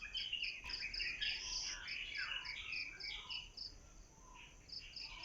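Outdoor ambience of an insect, cricket-like, chirping in even pulses about four times a second, with birds calling over it in varied short chirps. The insect pulsing stops for about a second near the end.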